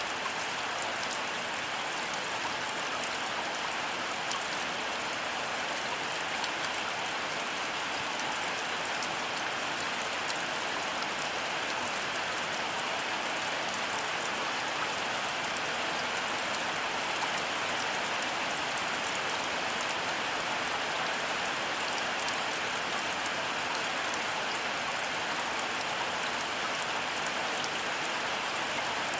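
Heavy rain falling steadily, a dense even hiss with many fine drop ticks on surfaces and no thunder.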